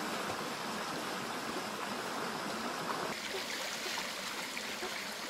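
Steady rushing noise of running water, like a stream, which abruptly becomes brighter and hissier about three seconds in.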